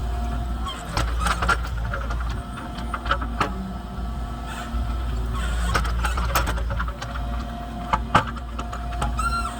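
Kubota KX033 mini excavator's 25 hp diesel engine running under work, with a steady whine from the hydraulics that comes and goes and scattered knocks and clanks as the machine digs and pushes debris.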